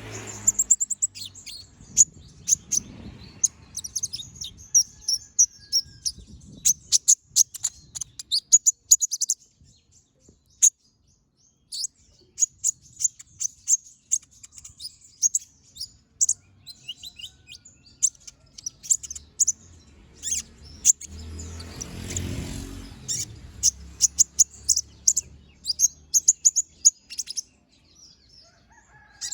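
Kolibri ninja (konin) sunbird singing in rapid runs of sharp, high chirps and trills, the piercing 'shots' prized in a singing bird. The song stops for about two seconds a third of the way in and then resumes. A brief low rumble comes a little past two-thirds of the way through.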